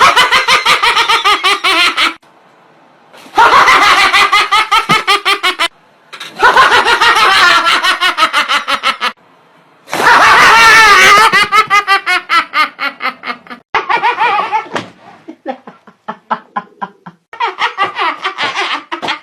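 Several bursts of loud, rapid laughter, each one to three seconds long, breaking off abruptly into brief silences between them, with the last bursts shorter and choppier.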